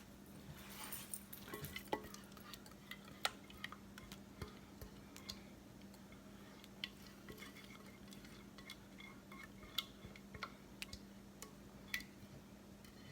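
Scattered light clicks and taps of a kitchen utensil against a dish, with a steady low hum underneath.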